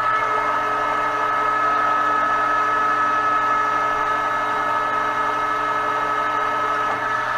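Metal lathe running under a turning cut on a metal arbor's outside diameter, a steady machine whine with a few fixed tones and no change in speed.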